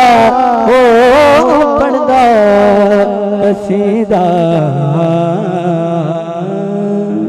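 A male voice sings a long, ornamented held note of a devotional Punjabi qasida (manqabat) over a steady sustained accompaniment tone. It grows gradually quieter through the second half.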